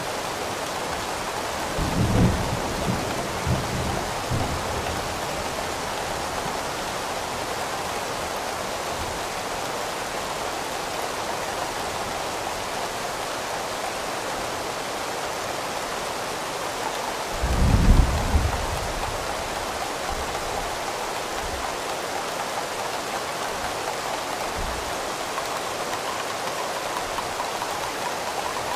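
Steady rain falling, with low rumbles of thunder twice: one about two seconds in that trails off over a couple of seconds, and a louder, shorter one a little past the middle.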